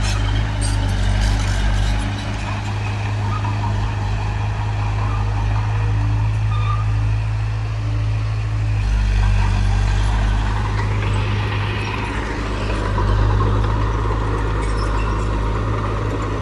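Heavy diesel engine of earthmoving machinery running steadily with a deep hum, its note shifting a little about halfway through.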